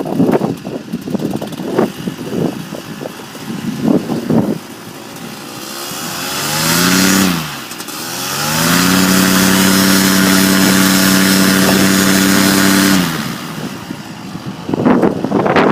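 A small engine revs up, drops off sharply, then climbs again and holds a steady high speed for about four seconds before fading. Gusty noise comes before and after it.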